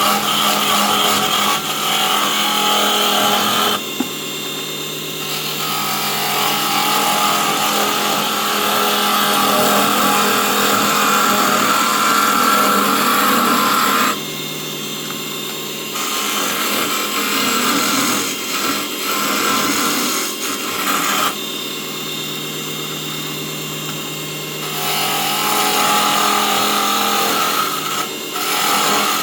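Small mini wood lathe's motor, running at 24 V, turning a wood blank while a turning tool cuts it: a steady motor hum under a loud rasping scrape of tool on spinning wood. The scraping drops away three times for a second or more, leaving mostly the motor hum, as the tool comes off the wood.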